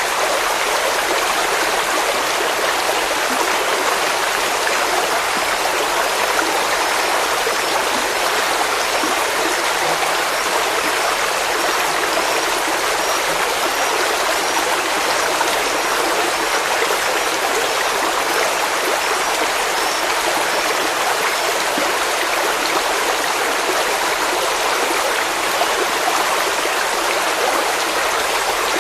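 Flowing stream water, a steady, even rush with no break. A faint row of small, evenly spaced high chirps sits on top of it for about ten seconds starting a few seconds in.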